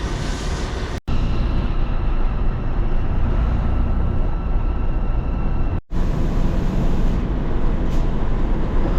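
Truck engine and road noise, a steady low rumble while driving, broken twice for an instant by cuts.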